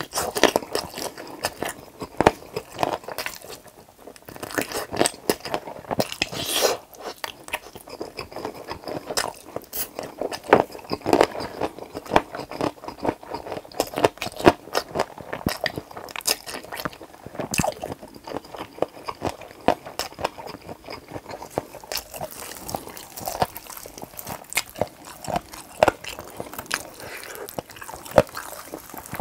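Close-miked chewing and crunching of fried chicken drumsticks, with wet mouth sounds and a steady run of crisp crackles and bites.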